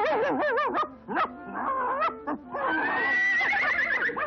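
Horse whinnying: short wavering calls in the first second, then a long, high, quavering whinny from about two and a half seconds in.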